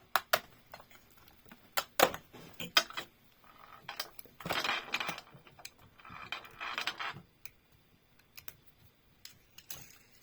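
Hand handling of a plastic toy package and a small die-cast car: a scatter of sharp clicks and light knocks, with two short stretches of plastic rustling near the middle.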